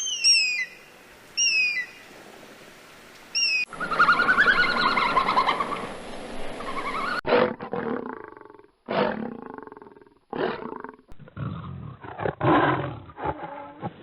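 A run of different animal calls cut one after another: three short, falling, high chirps, then a noisy stretch of wavering cries, then a series of loud calls each under a second long.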